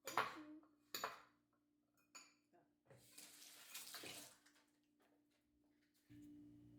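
Dishes clinking and knocking three times, then a tap running for about a second and a half. A low steady hum starts near the end.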